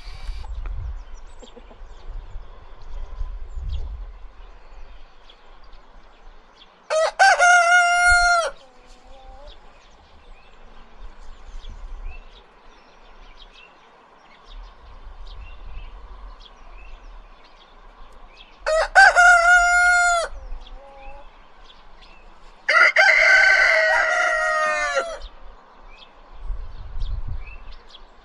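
Rooster crowing three times, each crow lasting one to two seconds and dropping in pitch at its end, with the third crow fuller and longer.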